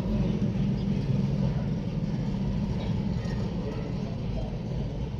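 Suzuki Khyber's three-cylinder petrol engine running steadily, with no revving.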